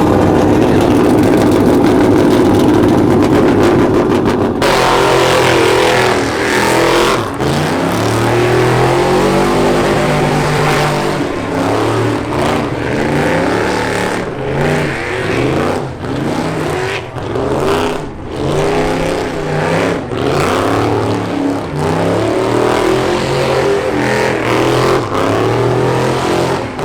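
Truck engine revving hard in a burnout: held at high revs for the first few seconds, then revved up and down over and over.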